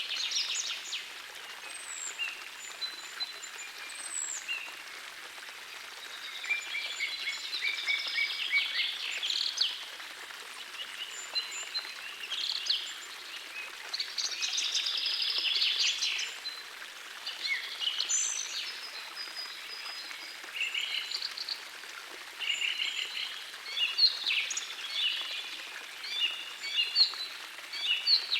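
Several songbirds singing over one another in chirps and fast trills, over the steady rush of a small forest stream.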